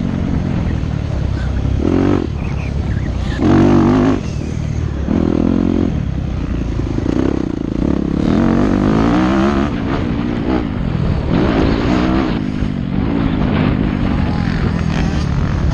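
Yamaha YZ250F four-stroke single-cylinder motocross engine, ridden hard: it revs up and backs off over and over, with rising pitch on each pull.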